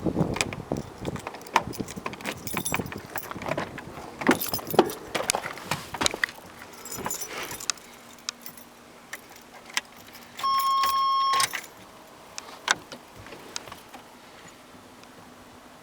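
A ring of keys jangling, with clicks, knocks and rattles as a 1988 Chevy Silverado's locked door is worked open. Then it goes quieter, and about ten seconds in a single steady warning tone sounds for about a second.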